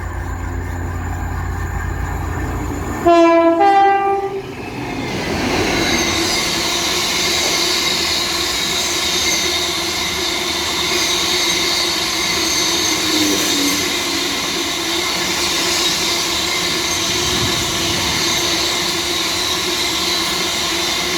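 A Freightliner freight train's locomotive approaches with its engine running, then sounds its two-tone horn about three seconds in, two short blasts at different pitches. Its freight wagons then roll past steadily, wheels clattering and squealing.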